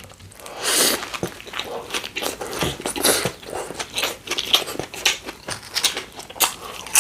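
Close-miked eating of a Subway sandwich: a bite into the bread about a second in, then steady crunching and chewing.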